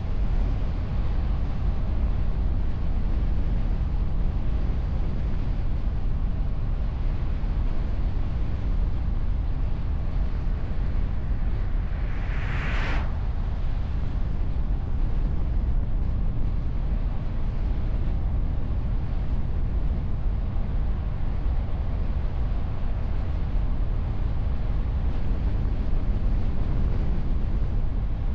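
Steady wind and road rumble of a moving car, heard from a camera mounted on the bonnet behind a wind guard. About twelve seconds in, a brief rushing hiss of about a second rises over it.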